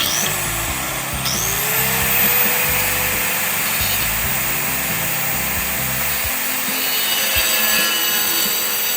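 A wet tile saw cutting tile, starting abruptly with a steady, hissing whine, the pitch rising briefly as the blade bites near the start and again about a second in. Background music plays underneath.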